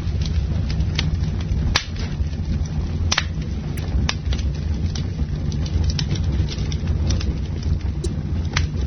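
Campfire burning: a steady low rumble of flames with irregular sharp crackles and pops of burning wood, several of them loud.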